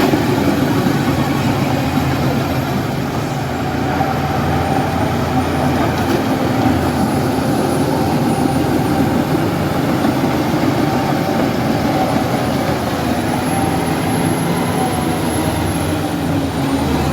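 Heavy diesel earthmoving machinery running steadily under load, with a faint high whine that drifts slowly in pitch.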